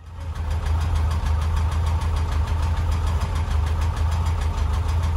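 The Barris Mini T's air-cooled VW engine idling steadily with a fast, even exhaust pulse. It cuts in abruptly at the start.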